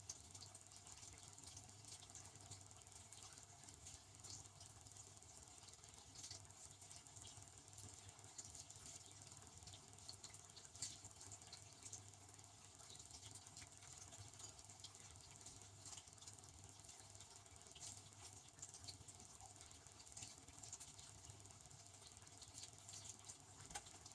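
Devanti benchtop dishwasher running a wash cycle, heard faintly: a steady low hum from the pump motor under a constant irregular patter of water spraying inside the tub.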